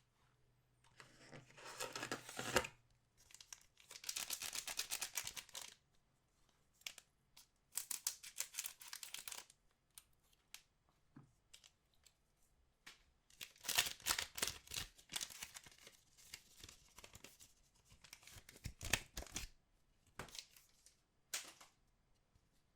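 Trading card pack wrappers being torn open and crinkled by hand, in about six bursts of tearing with short pauses between.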